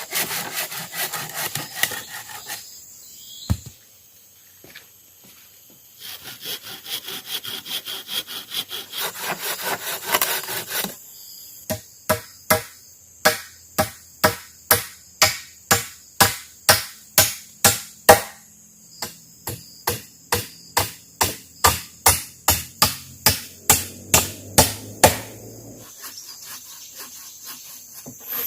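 Wood being hand-sawn in quick back-and-forth strokes, twice, with a short pause between. It is followed by a long regular run of sharp knocks on wood, about two a second, that stops about three seconds before the end.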